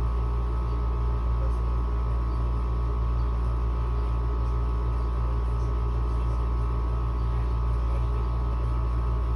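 Window air conditioner running on high: a steady hum of fan and compressor with a constant low drone and an even rush of air.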